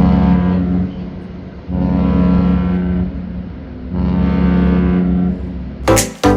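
Cruise ship's horn sounding three long, deep blasts of one steady pitch, with short gaps between them.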